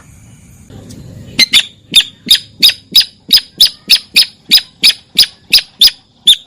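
Sintar bird call played as a hunting lure: a rapid, even series of sharp, short notes, about three a second, starting about a second and a half in.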